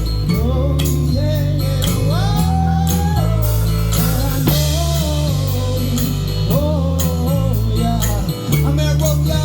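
Live band playing a song: a heavy, steady bass line moving in stepped notes, with drum kit, under a melody line that bends and slides in pitch.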